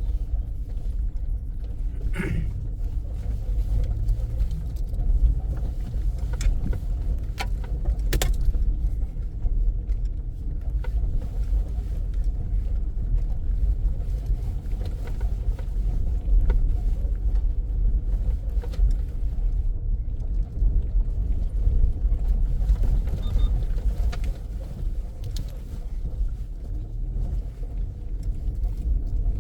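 Car driving at a steady pace: a constant low rumble of engine and tyres, with a few sharp knocks from bumps, the clearest about two seconds and eight seconds in.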